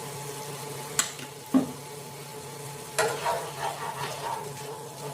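Spatula stirring and scraping in a pan of onion and garlic frying in oil, with a sharp clink about a second in and a knock shortly after. A steady low hum runs underneath.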